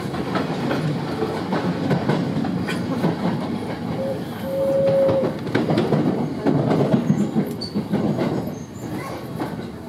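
Sanyo 5000 series electric train running, heard from inside the car: a steady rumble with wheels clacking over rail joints, and a brief steady tone about halfway through. The noise eases near the end as the train slows into a station.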